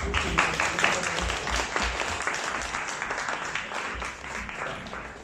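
Audience applauding, loudest at the start and dying away toward the end.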